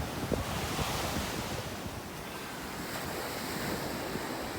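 Caribbean surf washing onto a sandy beach, a steady wash of waves, with wind buffeting the microphone in the first second or so.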